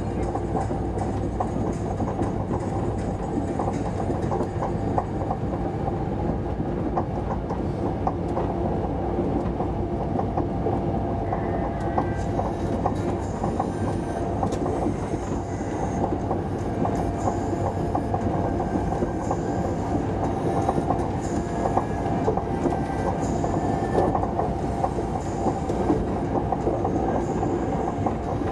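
Interior noise of an SJ 3000 (X55 Regina) electric train running at speed: a steady rumble of wheels on rail with a constant hum and frequent light clicks from the track. A faint higher whine joins about eleven seconds in.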